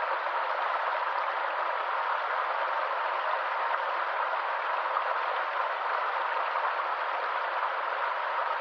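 A small stream's water running steadily over rocks, an even rushing hiss with no breaks or changes.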